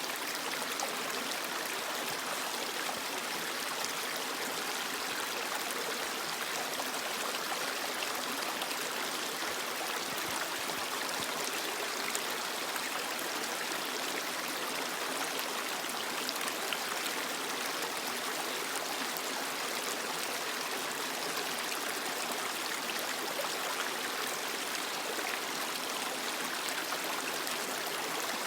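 Creek water flowing steadily over rocks, a constant rushing with small splashes and trickles.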